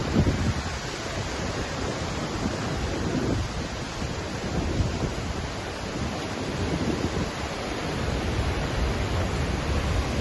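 Waterfall roaring steadily, a dense rush of falling water with surging low rumbles. Gusts of wind on the microphone come and go.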